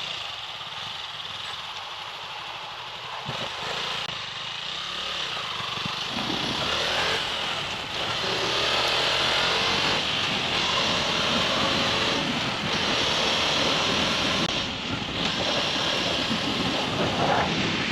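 200cc motorcycle being ridden, engine noise mixed with rushing wind, getting louder as it picks up speed about six seconds in.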